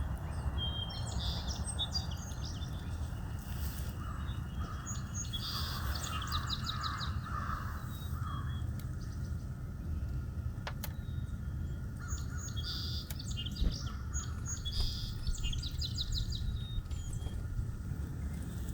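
Wild songbirds singing and calling in several bursts of quick, high chirps and trills, over a steady low rumble.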